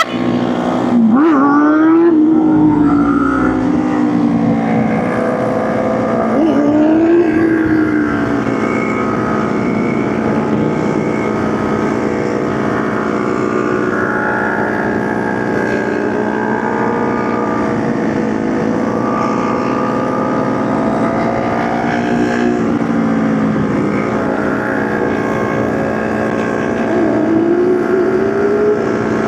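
Motorcycle engine running under way, its revs climbing and dropping several times as the bike accelerates and shifts gears.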